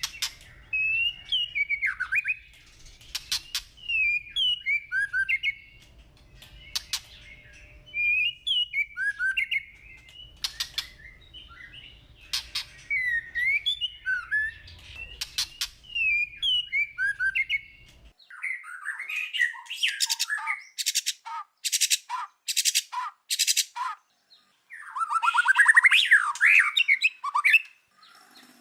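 White-rumped shama singing: short whistled phrases of gliding notes, repeated every couple of seconds and mixed with sharp clicks. In the last third, a run of sharp clicks about two a second leads into a louder, fuller song phrase.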